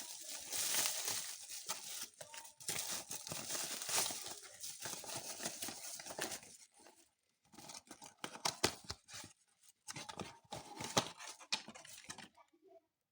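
Parcel packaging being torn open and crinkled by hand: dense rustling and crackling with sharp clicks, a short pause about seven seconds in, then more crinkling that stops near the end.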